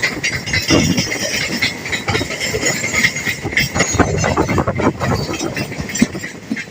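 Indian Railways train cars rolling along the track, their wheels clattering over the rails with a dense run of knocks and clicks.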